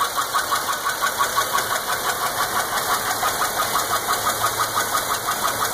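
GM 3400 3.4-litre V6 of a 2003 Chevrolet Impala running with a fast, regular chirping, several chirps a second, that is not from the belt. The owner puts it down to a bad lifter and cam lobe.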